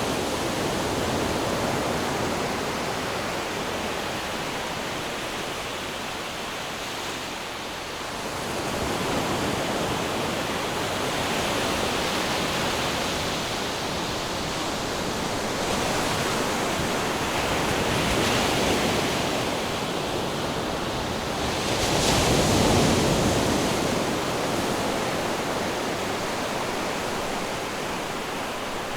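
Ocean waves washing onto a shore: a steady rush of surf that swells and eases every few seconds, the largest wave breaking about three quarters of the way through.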